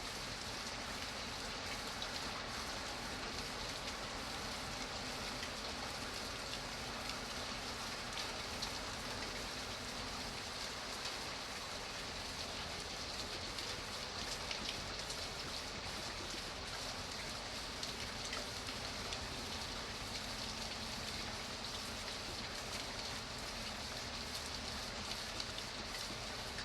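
Steady rain falling, an even hiss of drops pattering on a surface.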